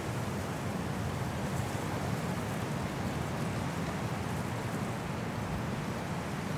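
High winds blowing steadily through forest trees in a snowstorm, with blowing snow.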